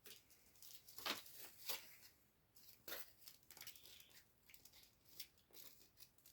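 Sticky tape being pulled and torn in short, irregular scratchy strokes, the loudest about a second in and again near three seconds.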